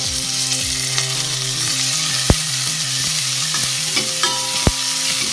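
Chopped shallots, curry leaves and cumin sizzling in hot oil in a stainless steel pot as they are sautéed and stirred with a metal spoon. There are two sharp clinks of the spoon against the pot, a couple of seconds apart.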